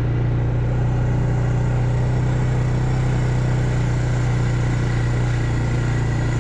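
Four-wheel-drive quad bike engine running steadily, its pitch even with no revving.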